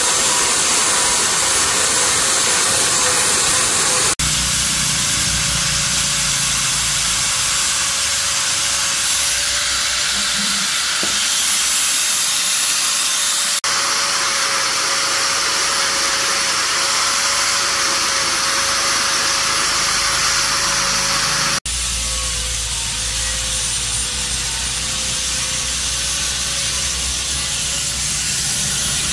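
Steady, loud hissing machine noise with a faint constant whine, broken by abrupt cuts three times.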